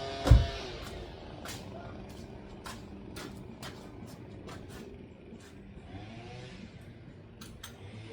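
A heavy thump about a third of a second in as a steady whine cuts off, followed by scattered sharp clicks and ticks over a low rumble.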